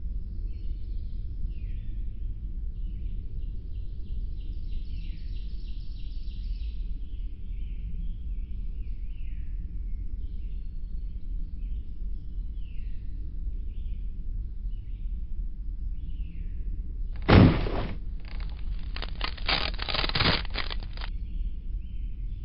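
Small birds chirping, with a short trill, over a steady low rumble. About seventeen seconds in comes a single loud thump, followed by about three seconds of rapid clicking.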